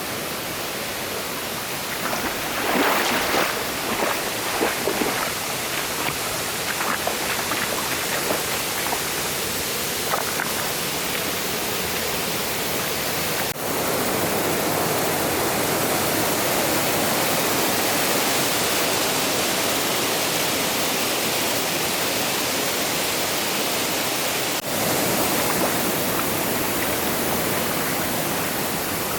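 Rushing mountain stream water, a steady loud wash, with a spell of sharper splashes a few seconds in. Twice the sound drops out for an instant.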